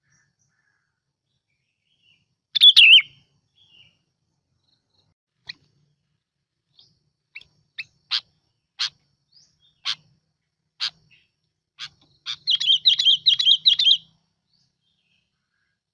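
Bulbul (bông lau) song: a loud warbling phrase about two and a half seconds in, a run of short sharp chirps about one a second, then a fast bubbly phrase near the end.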